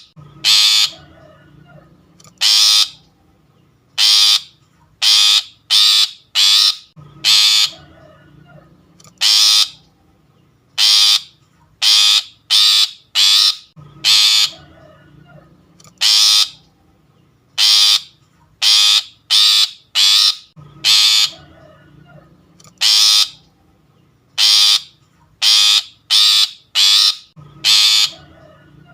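Long-tailed shrike (pentet) giving short, harsh, rasping calls over and over, sometimes singly and sometimes in quick runs of three to five, played as a trapping lure call.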